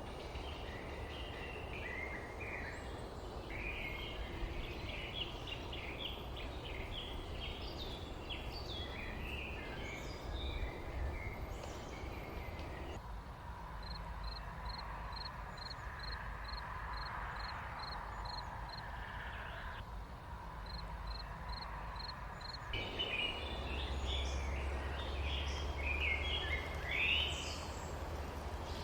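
Small songbirds chirping and twittering in a busy chorus. In the middle the chorus thins to one bird repeating a short high note about twice a second. Near the end the chorus returns over a low steady rumble.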